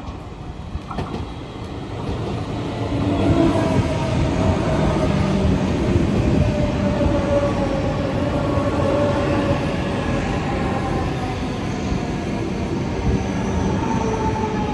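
Passenger train running through the station, growing louder over the first few seconds and then holding a steady rumble, with faint high tones that slowly fall in pitch.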